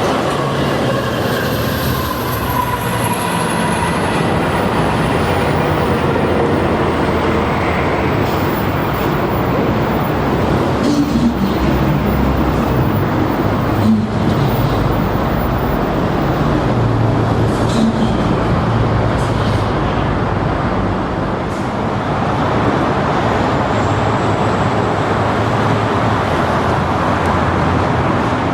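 Train passing close by: a loud, steady rumble of wheels on rail, with a few high tones falling in pitch during the first several seconds.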